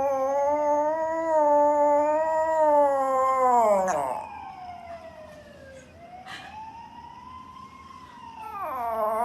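A dog howling: a long, loud, wavering howl whose pitch drops away about four seconds in, then a quieter howl that rises and falls, and a new loud howl starting near the end.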